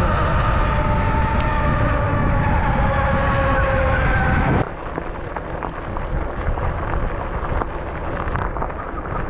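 Wired Freedom electric bike's motor whining under wind rumble on the microphone, the whine drifting slightly lower. About halfway through, the sound drops off abruptly to a quieter rolling noise with scattered clicks.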